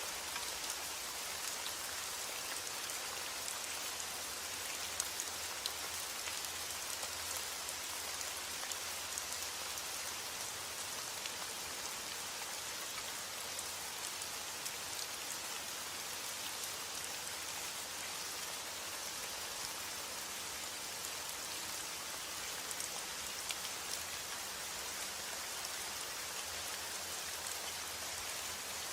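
Heavy rain falling steadily on a roof, a dense even hiss with many small drop ticks.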